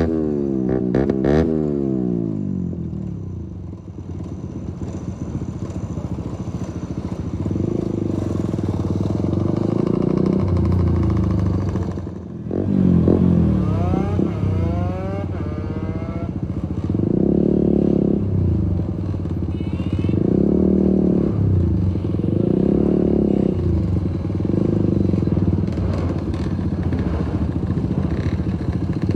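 Keeway RKF 125's single-cylinder four-stroke engine through an open Mivv exhaust with no dB killer, recorded from the rider's backpack. The revs fall away to a low idle at the start, climb in a series of rising sweeps as the bike pulls away about halfway through, then surge and drop back several times with bursts of throttle.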